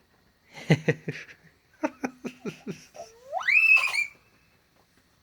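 A young boy laughing in short bursts, then letting out a high squeal that rises sharply in pitch and holds.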